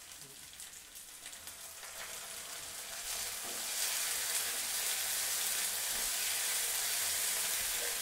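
Ginger-garlic paste frying in hot oil with chopped onions and herbs, stirred with a wooden spatula. The sizzle starts faint and grows louder about three seconds in as the paste goes into the oil, then holds steady.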